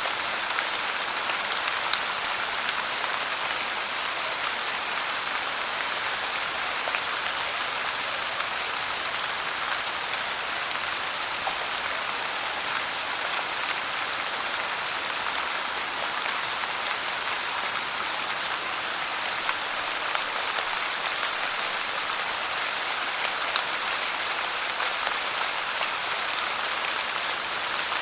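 Steady rain falling on a surface, a constant hiss with scattered drop patters. The level stays the same throughout.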